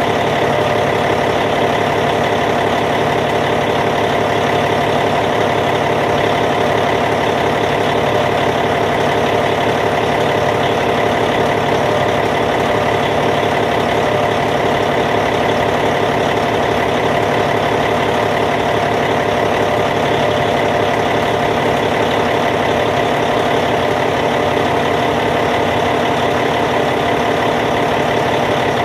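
Caterpillar C15 diesel engine of a D8T bulldozer idling steadily.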